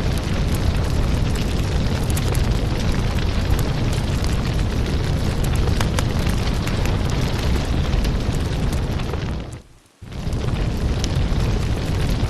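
Firewood burning: a steady rush of flame with frequent sharp crackles and pops from the logs. The sound fades out briefly and comes straight back about ten seconds in.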